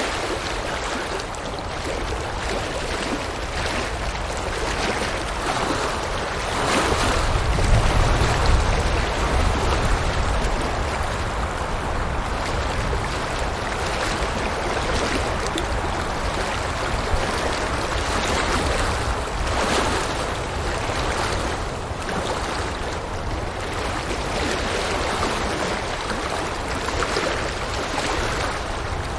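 River water rushing and splashing in a steady, even flow. A deeper rumble swells for a few seconds about seven seconds in.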